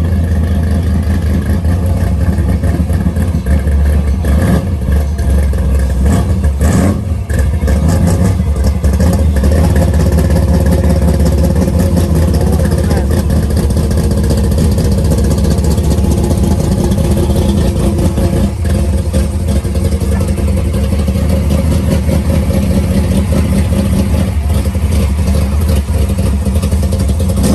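1958 Pontiac Chieftain's V8 engine running steadily, with a brief burst of noise about seven seconds in.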